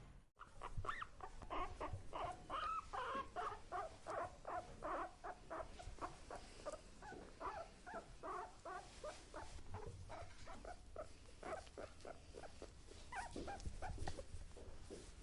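Pigs giving short, squeaky grunts in quick succession, about three a second. The calls are faint and thin out in the second half, with a brief cluster again near the end.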